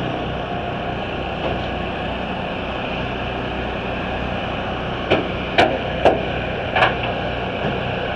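Steady rumble of engines running in the demolition derby pits, with four sharp hammer strikes on metal, spaced about half a second apart, a little past the middle.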